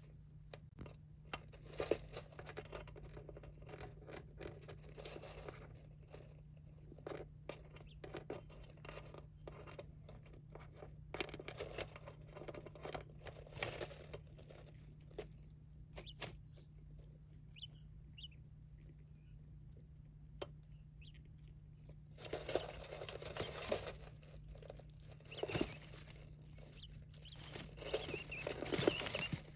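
Small pet birds scratching, pecking and rustling about, a busy patter of small clicks and scuffs with a few faint peeps about halfway through, getting busier near the end, over a steady low hum.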